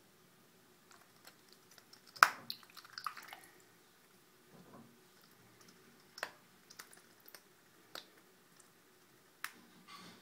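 A mallard duckling moving about in a bathtub: scattered sharp clicks and taps with a little splashing. The loudest tap comes about two seconds in, followed by a short cluster of splashy clicks, then single clicks every second or two.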